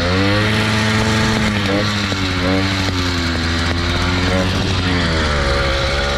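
Two-stroke motorbike engine running and being revved, its pitch rising and falling several times, while it warms up just after being restarted.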